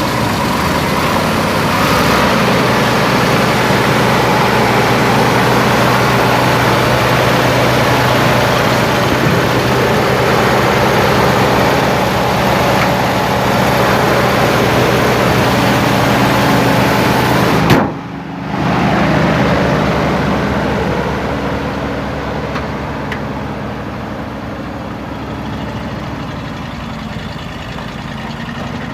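1969 Chevrolet C60 truck engine idling steadily just after being started. A little over halfway through the sound drops for a moment and comes straight back, then runs on somewhat quieter.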